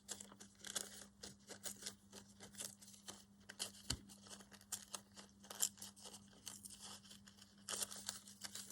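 Paper being handled and torn by hand: a quiet, irregular run of small crackles and tearing rustles, a little busier near the end.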